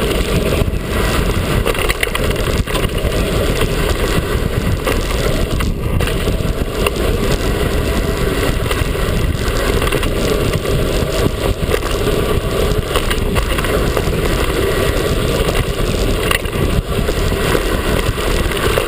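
Mountain bike riding fast downhill on a dirt trail: steady rushing wind on the microphone mixed with tyre and trail noise and small knocks from the bike.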